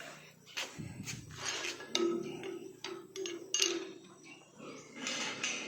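Pigs in their pens: scattered sharp knocks and clanks, with short broken pig calls near the middle.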